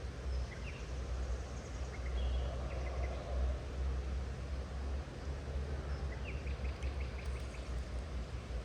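Small birds chirping in short calls, with a quick run of repeated chirps about two-thirds of the way in, over a steady low rumble.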